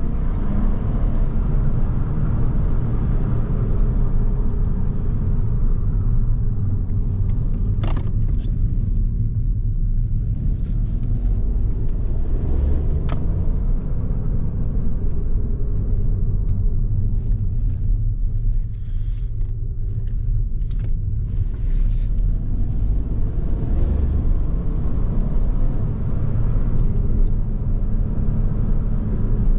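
Ford Focus 1.0 EcoBoost three-cylinder petrol engine driving the car along, over a steady low rumble of road and tyre noise. The engine eases off through the middle and pulls harder again near the end, with two short sharp clicks in the first half.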